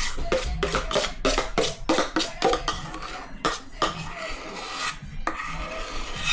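Quick rasping strokes on a kitchen grater, about four a second for the first couple of seconds, then a few slower, scattered strokes.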